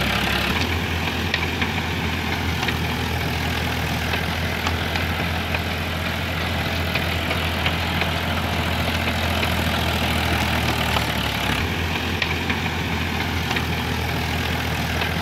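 Small motor and drive of a home-built model tractor running steadily, a low hum with faint ticks, its pitch shifting slightly about half a second in and again near twelve seconds.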